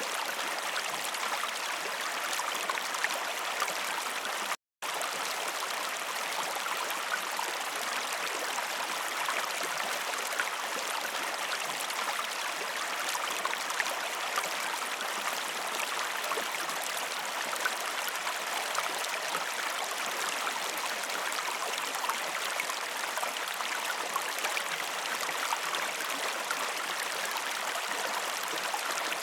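Waterfall: a steady rush of falling water, cutting out completely for a split second a little under five seconds in.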